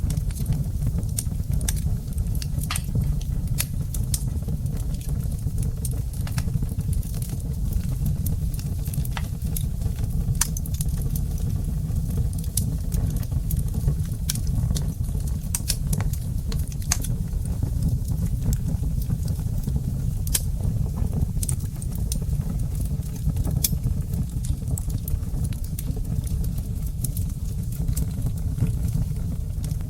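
Wood fire burning in a brick fireplace: scattered sharp crackles and pops over a steady low rumble of the flames.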